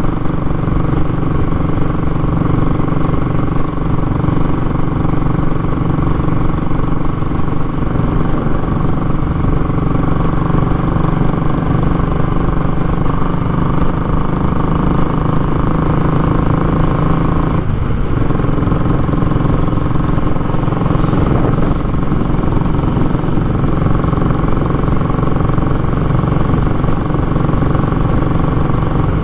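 Royal Enfield Classic 500's single-cylinder engine running steadily through a short, open muffler, with a raw exhaust note. The note breaks briefly and shifts about eighteen seconds in.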